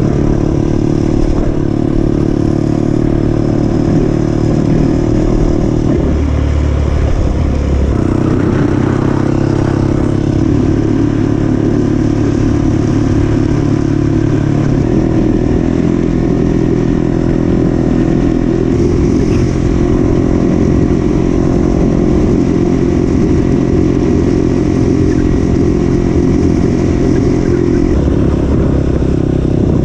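Off-road dirt bike engine running hard under load, its note shifting a few times as the throttle and gears change.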